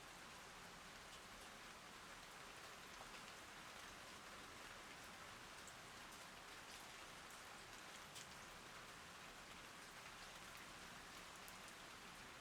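Faint steady rain, with many separate drops tapping on leaves and other surfaces.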